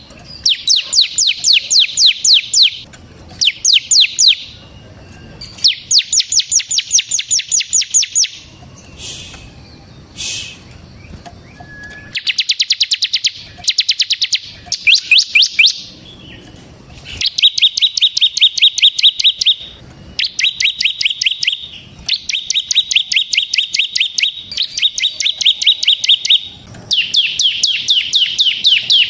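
Bar-winged prinia (ciblek) singing its fast rattling 'ngebren' trill: loud runs of sharp, high chirps at about ten notes a second, each run lasting one to three seconds with short pauses between, and a few softer single calls about a third of the way in.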